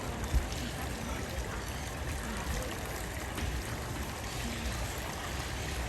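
Steady rush of running water, with a single brief knock about a third of a second in.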